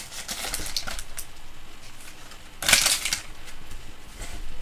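Trading cards from a freshly opened pack being handled and slid against each other, a light paper-and-card rustle, with one louder rustle about two and a half seconds in.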